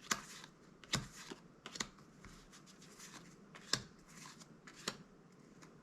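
Magic: The Gathering cards being flipped through one at a time. Each card gives a sharp snap against the stack, the loudest about once a second, with soft paper sliding between.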